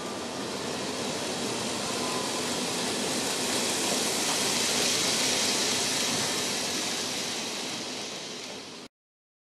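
N-gauge model train running past on the layout track: a hissing rolling noise of wheels and motor that swells to a peak about halfway and then fades. It cuts off abruptly to silence near the end.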